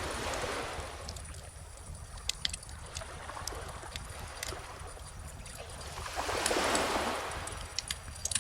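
Bonfire crackling with scattered sharp pops over calm ocean waves washing in: a small swell just after the start and a bigger one about six seconds in, with a steady low rumble underneath.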